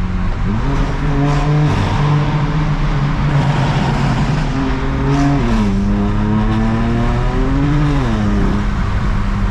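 BMW M4 CS's twin-turbo inline-six pulling under load on a wet road. Its pitch climbs about half a second in and holds, drops sharply around five and a half seconds, then rises and falls again near eight seconds before settling. An even hiss of tyres and spray from the wet road runs underneath.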